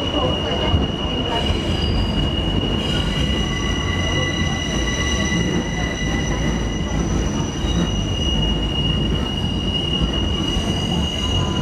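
Steel wheel flanges of an R68 subway train squealing as it takes a sharp curve, heard from inside the car. One steady high-pitched squeal runs throughout, and several more squealing tones join about three seconds in, over the car's loud rumble and vibration.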